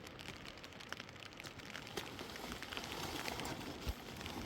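Steady rain falling, an even hiss scattered with many small drop hits, and a single dull thump near the end.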